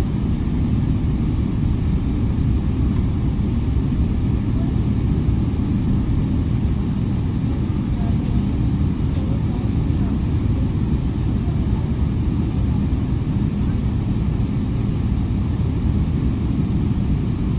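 Steady low rumble of an airliner cabin, with no change in pitch or level.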